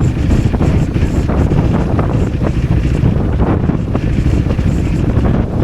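Heavy wind buffeting on a motorcycle rider's microphone at road speed, a steady low rumble that covers the motorcycle's own sound.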